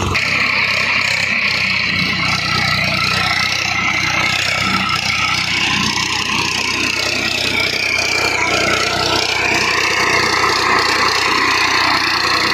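Swaraj 744 XT tractor engine running steadily, with a constant hiss over it.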